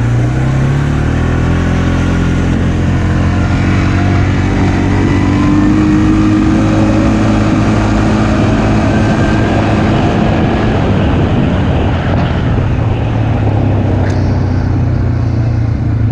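Kymco MXU 450 ATV engine running as the quad is driven. Its pitch rises a few seconds in as it speeds up, then eases back near the end. It is being run to warm the oil before the oil change.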